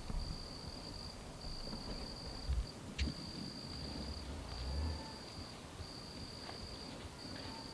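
Insect trilling steadily in repeated phrases about a second long, with brief gaps between them, over a low rumble. A single sharp click comes about three seconds in.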